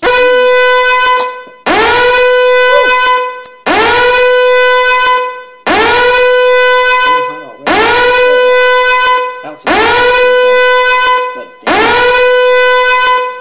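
A loud horn-like tone blasting seven times, about two seconds apart. Each blast swoops quickly up to a steady, buzzy pitch and holds for about a second and a half before the next.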